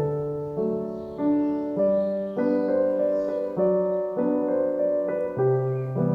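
Gentle piano music: soft chords struck one after another at an unhurried, even pace.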